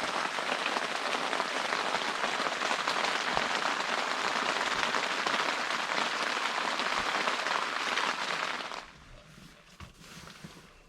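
Heavy rain pounding on a truck-bed tent, a steady dense hiss that cuts off suddenly about nine seconds in.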